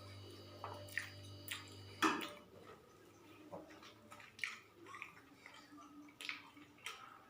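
Close-up eating sounds: soft chewing and scattered small clicks and wet smacks, the loudest click about two seconds in. A low steady hum runs under the first two seconds and then stops.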